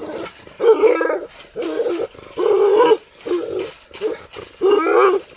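Kohati Gultair dog giving a run of about six drawn-out, pitched vocalizations, roughly one a second.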